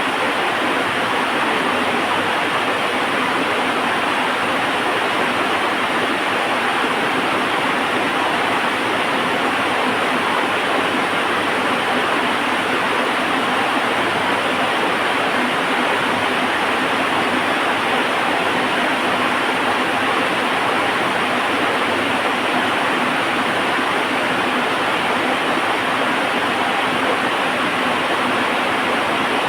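Heavy rain falling steadily, a constant even hiss with no let-up.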